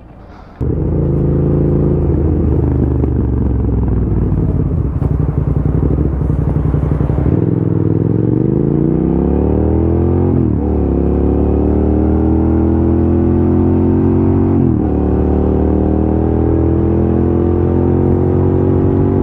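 Motorcycle engine cutting in abruptly, running steadily, then revving up and shifting through the gears. The pitch climbs and drops sharply at two upshifts, about ten and fifteen seconds in, before climbing slowly again.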